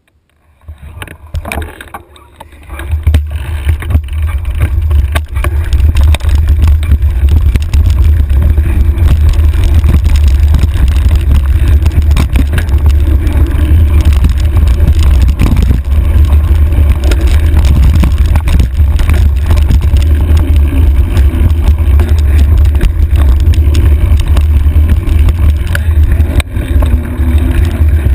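Wind buffeting the microphone of a handlebar-mounted camera as the bike gets under way, rising to a loud, steady low rumble within the first few seconds, with knocks and rattles from the bike jolting over rough trail.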